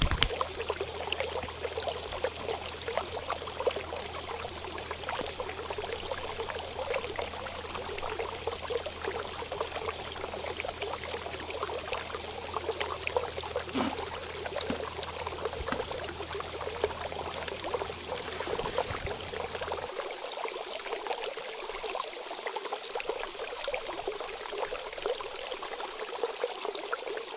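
Water trickling and flowing steadily, like a small stream or fountain.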